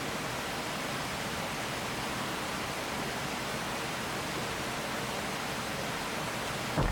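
Steady rushing of flowing water, an even hiss with no rhythm. A single short, low thump comes near the end.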